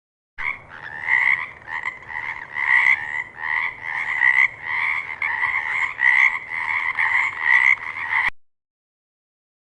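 Frog croaking: a run of repeated calls, about two a second, starting about half a second in and cutting off abruptly near the end.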